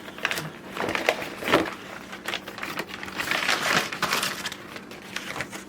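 Shotgun packaging being handled while unboxing: irregular rustling and scraping of box and wrapping, with scattered light knocks.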